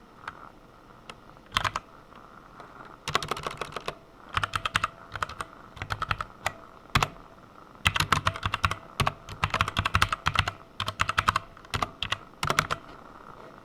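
Computer keyboard typing in quick bursts of keystrokes separated by short pauses, with a longer run of fast typing in the second half.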